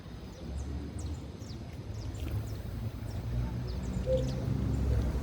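Canaries giving many short, high chirps while feeding, scattered all through, over a louder low rumble.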